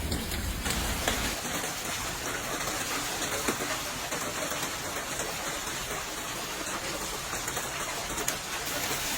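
Heavy rain falling steadily in a storm, with a few sharp taps against a hard surface. A low rumble in the first second fades out.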